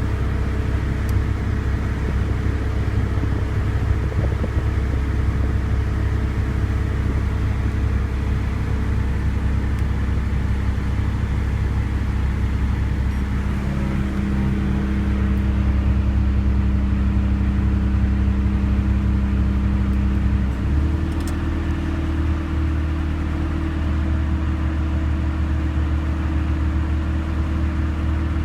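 1991 Honda Civic engine running steadily with its Matsushita AC compressor on, with no ticking: the compressor's rapid ticking has been fixed. The engine note shifts to a different steady pitch about twenty seconds in.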